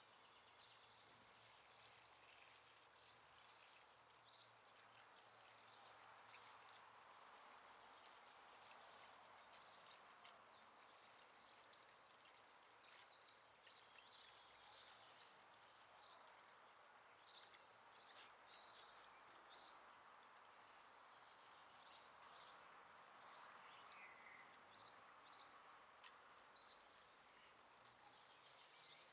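Faint water pouring into a bird bath as it is refilled, a soft even rush that swells and fades, with scattered short high ticks throughout.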